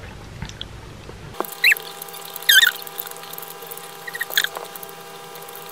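Close-up chewing of grilled cheese with a few short, high squeaky chirps, the loudest about two and a half seconds in, over a faint steady hum.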